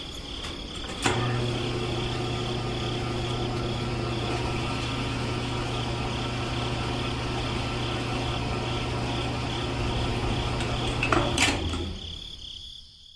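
Small electric motor switched on with a click, running at a steady hum and whine for about ten seconds, then switched off with a click.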